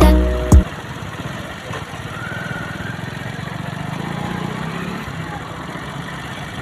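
A song cuts off with a last hit about half a second in, leaving a steady low rumble like a motor running.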